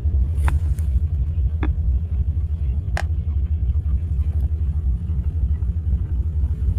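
Steady low rumble of a truck on the move, heard from inside the cab, with a few faint clicks.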